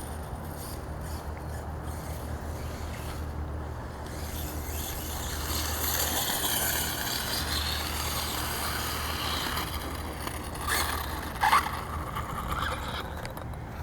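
Electric motor and drivetrain of a Redcat RC monster truck on 8S LiPo power whining as it drives at part throttle, the whine rising and falling in pitch with the throttle. A short, louder clatter about eleven and a half seconds in.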